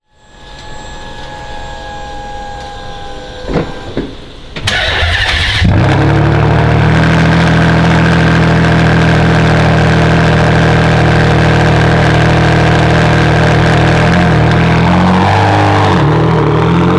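Ferrari Enzo's 6.0-litre V12 with a Tubi-style straight-pipe exhaust starting up: after a faint whine and two clicks it cranks for about a second and catches about five seconds in, then idles loud and steady.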